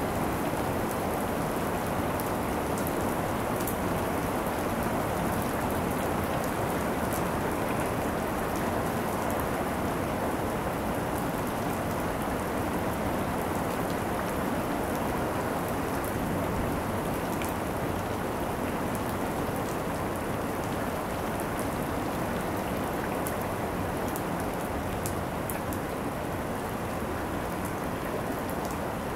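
Rain falling steadily in a thunderstorm: an even hiss of rain with many sharp drop ticks scattered through it, growing slightly quieter toward the end.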